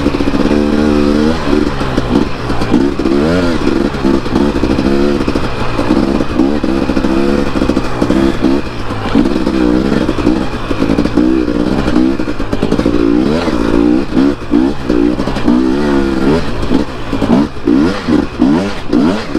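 Dirt bike engine being ridden hard, its pitch rising and falling every second or so as the throttle is opened and closed and gears change.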